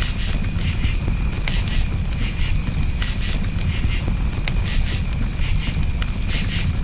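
Crickets chirping in repeated pulsing trills over a campfire's steady low rumble, with scattered sharp crackles.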